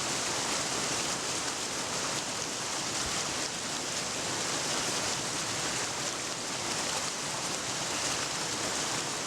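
Steady rushing of water, an even hiss with no separate drops or changes.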